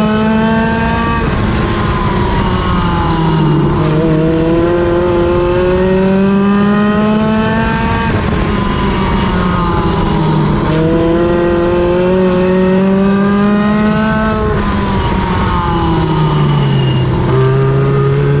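NEMA Lite midget race car engine on track, climbing in pitch under throttle for a few seconds, then dropping as the driver lifts. The cycle repeats about four times, the rhythm of a short oval's straights and turns.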